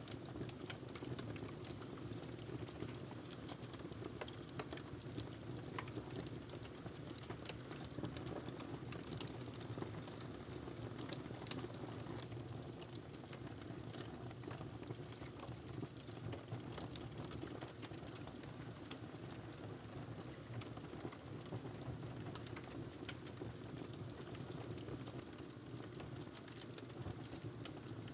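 Wood fire crackling in a fireplace: a steady low rumble of burning with many small, irregular pops and snaps.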